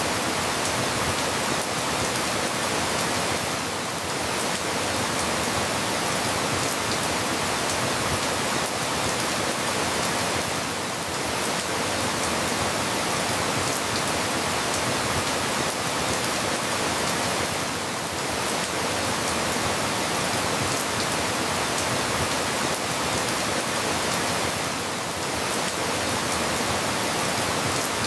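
Steady, even rain hiss with no distinct drops or thunder, dipping slightly in level about every seven seconds.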